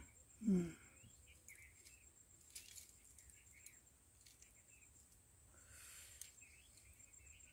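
Quiet outdoor ambience with faint, scattered bird chirps. A person makes a short murmur about half a second in.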